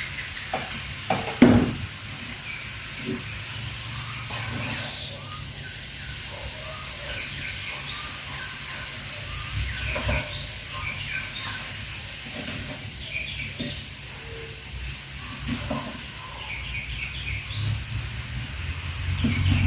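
Chop suey vegetables steaming and sizzling in a pot with a steady hiss, and one sharp knock about a second and a half in.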